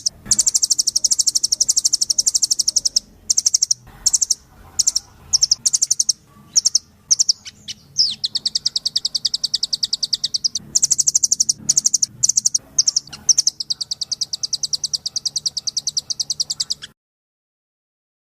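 Recorded songbird trills used as a masteran tutoring track: very fast, high-pitched repeated notes in long runs broken by short pauses. The recording cuts off abruptly near the end.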